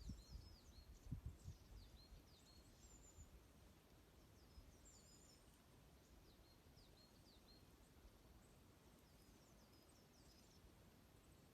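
Small birds twittering faintly: scattered clusters of short, high chirps that come every second or two. A few low thumps are heard near the start.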